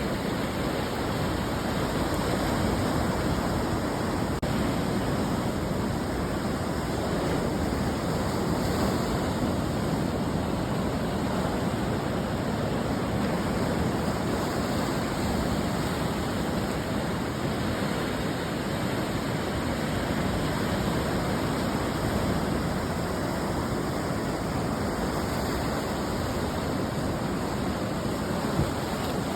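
Ocean surf breaking and washing on the shore: a steady rush of water noise that swells slightly every several seconds.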